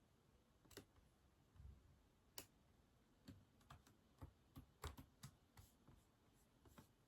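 Faint typing on a keyboard: a sparse, irregular run of single key clicks, busiest in the middle.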